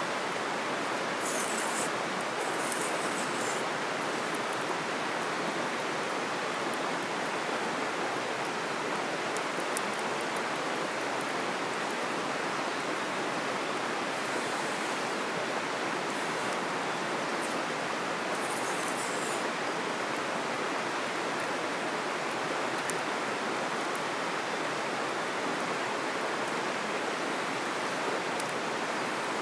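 Steady rushing of a flowing river, even throughout, with a few brief high hisses.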